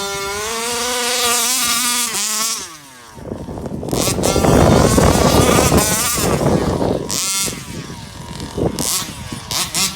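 34cc Rovan two-stroke engine of an RC Baja buggy running at high revs with a steady, slightly rising note, then cutting back about two and a half seconds in. It comes back on hard with a loud, rough burst, then revs on and off.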